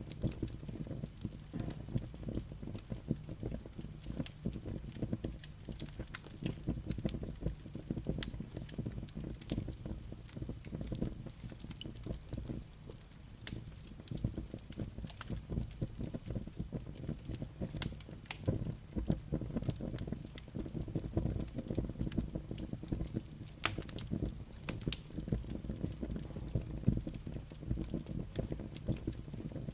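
Wood fire burning in a fireplace: a steady low rumble of flames with frequent sharp crackles and pops from the burning logs and embers.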